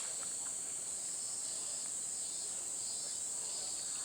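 A steady high-pitched chorus of insects: a continuous shrill drone with a fainter wavering layer beneath it.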